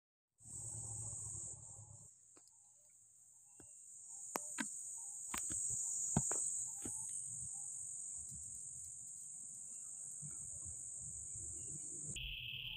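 Insects trilling in one steady, high-pitched, unbroken drone, with a few sharp clicks partway through. Near the end it gives way abruptly to a lower-pitched steady insect buzz.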